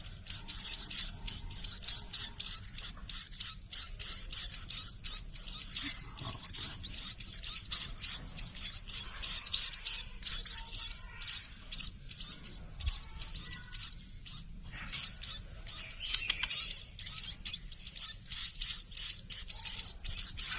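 Nestling munias giving high begging chirps in a fast, continuous series, about three to four a second, while they are hand-fed: hungry chicks calling for food.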